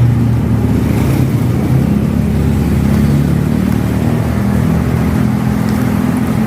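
Road traffic: a motor vehicle's engine running close by with a steady low hum that shifts slightly in pitch.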